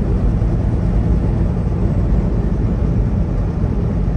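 Semi truck driving at road speed, heard from inside the cab: a steady engine drone and road noise, heavy in the low end.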